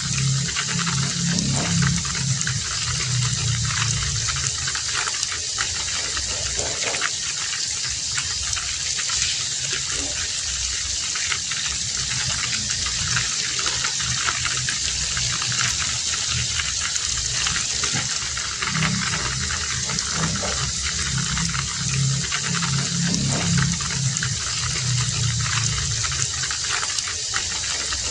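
Heavy rain falling steadily in a dense, even hiss. A lower, choppy rumble comes and goes underneath, strongest near the start and again in the second half.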